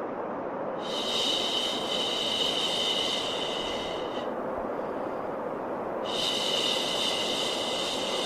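Steady white noise with a long 'shhh' shushing sound over it, twice, each lasting about three seconds: a lulling sound for calming a baby to sleep.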